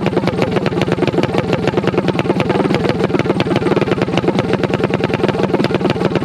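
A minibike engine idling close by, a steady, rapid, even pulse that neither rises nor falls.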